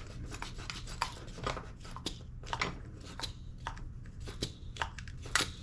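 Irregular light clicks and scrapes of an airsoft gas blowback rifle's bolt carrier and nozzle parts being handled and worked by hand.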